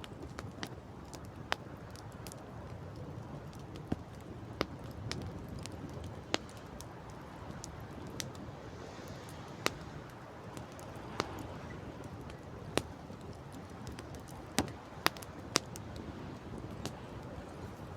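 Wood campfire crackling, with irregular sharp pops and snaps scattered through, over a low steady rush of wind and sea.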